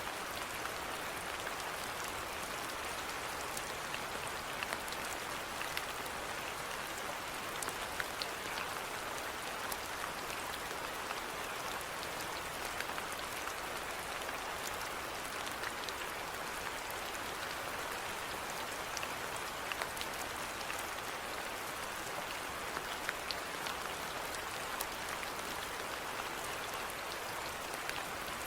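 Steady rainfall, an even hiss with scattered individual drops pattering on a surface.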